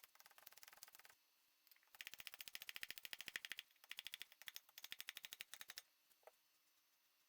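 Rapid, even metallic clicking, about a dozen clicks a second, in runs broken by short pauses, with a single click near the end.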